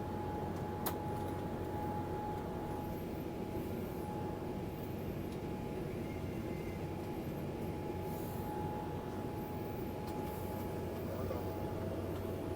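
Airliner jet engines running at high power, a steady drone with a continuous whine heard inside the cabin during climb-out. A single click is heard about a second in.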